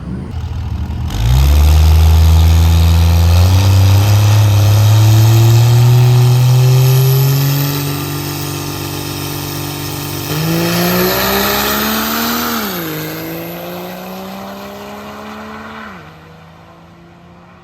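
Cummins diesel drag-racing truck launching and accelerating hard down the strip. The engine note climbs through the gears, dips at each shift, then cuts back sharply near the end and fades into the distance.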